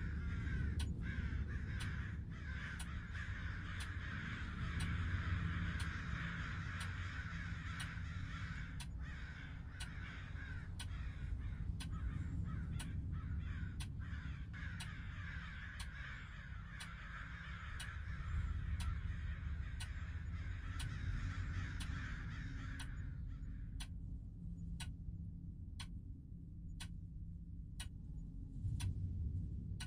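Crows cawing in a dense chorus that cuts off about 23 seconds in, over a low rumble. A clock ticks about twice a second throughout.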